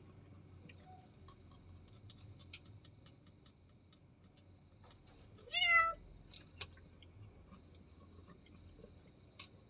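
Domestic cat giving one short meow about halfway through, with faint scattered ticks and clicks around it.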